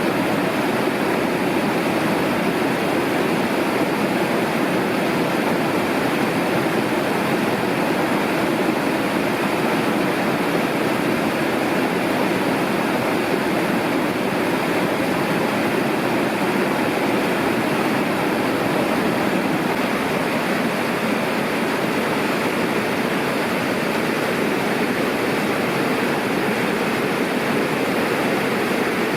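Mountain river rushing: steady, unbroken noise of fast-flowing water.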